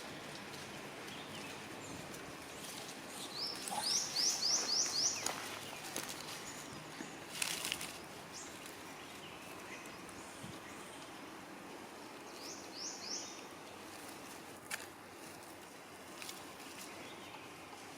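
Outdoor background noise with a bird calling: a quick run of five rising high notes about four seconds in, then three more near the thirteen-second mark. A brief sharp rustle or knock comes between them.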